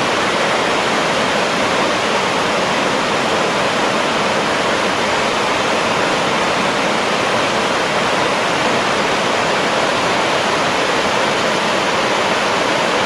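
Buttermilk Falls, a river waterfall, rushing close by: a loud, steady roar of falling and churning water that does not change.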